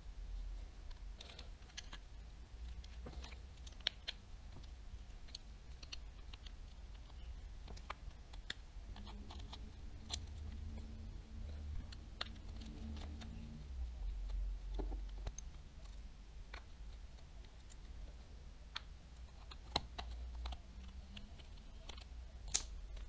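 Scattered light clicks and taps of small reel parts and tools being handled while a Daiwa Tatula 100 TWS baitcasting reel is taken apart, over a low steady hum.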